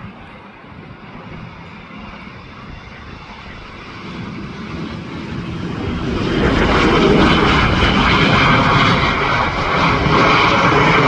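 Cessna Citation Longitude business jet's twin turbofan engines, growing louder as the jet approaches and staying loud from about six seconds in, with a high whine over the rush.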